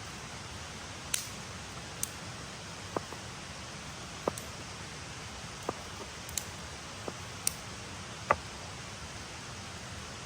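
Steady hiss with about ten sharp, irregular clicks or pops scattered through it. The last one, near the end, is the loudest.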